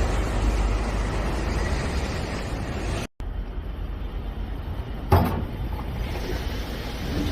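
Heavy vehicle engine running with a steady low rumble. The sound breaks off for a moment about three seconds in, and a single sharp knock comes about five seconds in.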